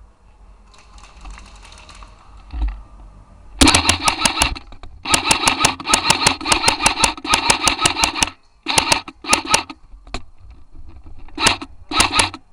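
Airsoft M4 electric rifle firing on full auto: rapid clicks over the whine of its motor and gearbox. It fires one long burst from about three and a half seconds in, broken once near four and a half seconds, then four short bursts near the end.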